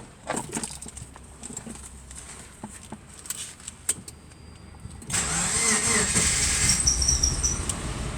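Subaru Forester's flat-four engine being started: a few clicks and knocks, then about five seconds in the engine fires and keeps running, its pitch swelling briefly before it settles.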